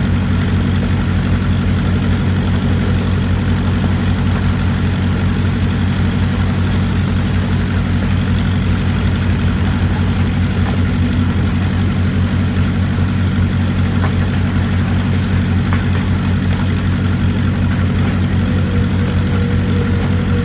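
An excavator's diesel engine running steadily, a low even hum with a fine regular pulse and no change in speed, under a steady hiss. A faint thin tone joins near the end.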